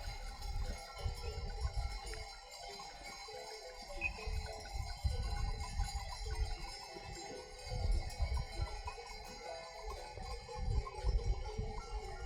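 Many bells worn by a herd of goats or sheep, clanking and jingling unevenly as the animals move, with irregular low rumbles underneath.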